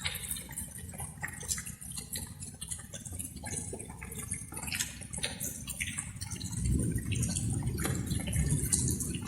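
Light rain, with water dripping in many irregular drops over a steady low rumble. The rumble swells and grows louder about two-thirds of the way through.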